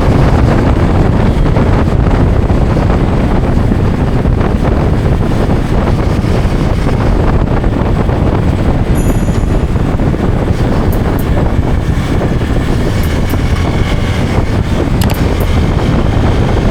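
A motorcycle riding along: steady wind buffeting and road noise on the bike's microphone, with the engine running underneath.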